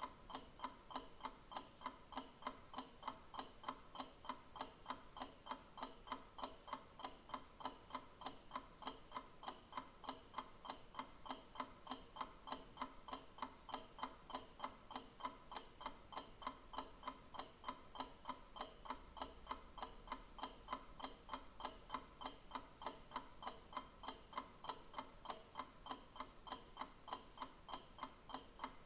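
Clock ticking steadily and evenly, about two crisp ticks a second.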